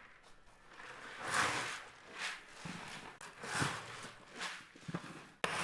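Footsteps of a person walking at an easy pace, a crunching step about once a second.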